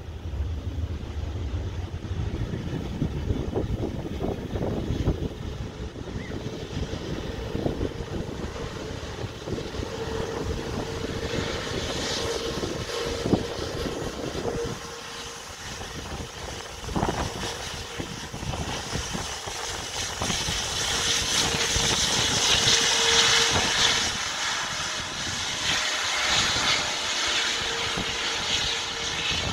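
Jet engines of a British Airways Airbus A380-800 running, growing louder to a peak about two-thirds of the way through and then easing slightly, with a steady whine over the rushing noise.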